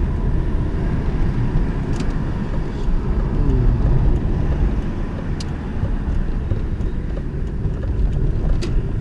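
BMW 325tds's 2.5-litre straight-six turbodiesel and its tyres on the road, heard from inside the cabin while driving: a steady low rumble, with a few light ticks or rattles.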